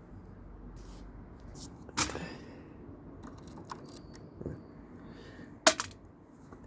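Scattered sharp clicks and knocks of tools and small parts being handled while taking apart a video cassette player: one about two seconds in, a louder sharp one near the end, and a few fainter taps between.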